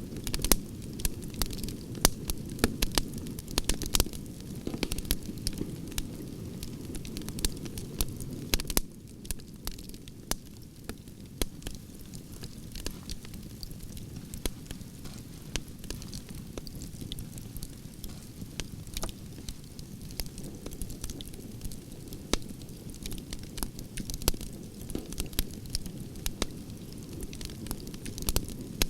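Wood campfire burning: a steady low rumble of flames with frequent sharp crackles and pops from the burning logs. The rumble drops a little about nine seconds in.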